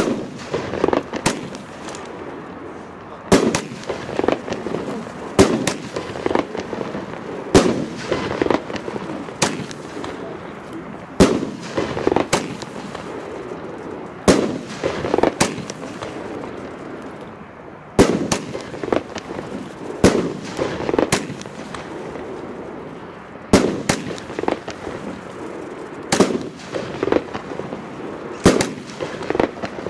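Consumer firework batteries (multi-shot cakes) firing shot after shot: sharp bangs roughly once a second, with two brief lulls.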